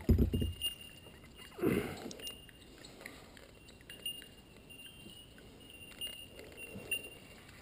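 Short, clear ringing bird notes repeating every half second to a second, faint. Two low thumps in the first two seconds.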